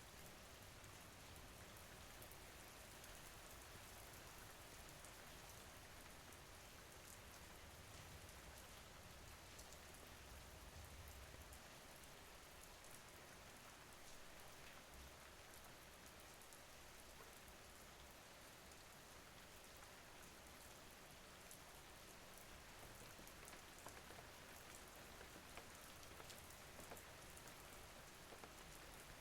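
Faint, steady rain falling, with many small drop ticks over an even hiss and a low rumble in the first half.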